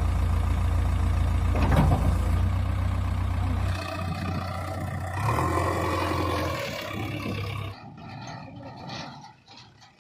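Heavy diesel engine of earthmoving machinery running steadily with a deep rumble. It eases a little about four seconds in and cuts off abruptly near the end.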